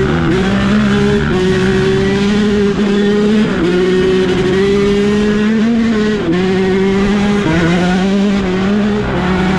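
Dirt bike engine running hard at high revs while being ridden. Its pitch holds steady and dips briefly, then recovers, about five times.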